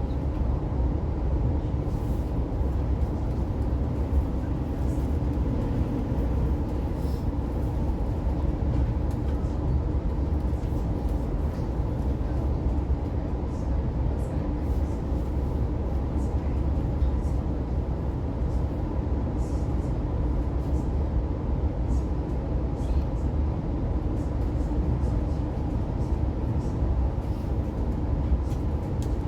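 Inside an Oscar H set electric intercity train carriage on the move: a steady low rumble of the wheels on the track with an even electrical hum, and faint scattered ticks.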